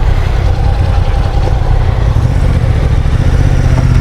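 Motorcycle engine running steadily at low speed, a Honda NC750 DCT's parallel twin heard from the rider's own bike, under a heavy low rumble.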